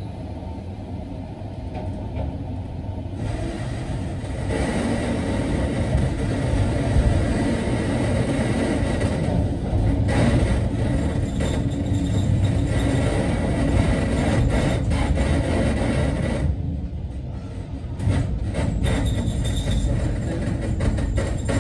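Sanki Railway Hokusei Line narrow-gauge electric train running along the track, heard from behind the cab window: a steady rumble of wheels and running gear. A faint high whine rides over it from about four seconds in until about sixteen seconds, and a quick run of clicks from the wheels comes near the end as the train enters the curve.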